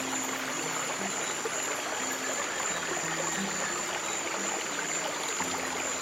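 Stream water flowing steadily, with soft, low held piano notes changing every second or so underneath.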